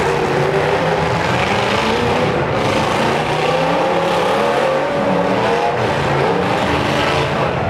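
Demolition derby car's engine running loud and continuously, its pitch wavering up and down as it revs.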